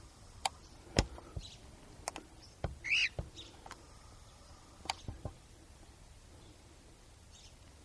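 A cockatiel gives one short call about three seconds in, amid a handful of sharp clicks and taps during the first five seconds.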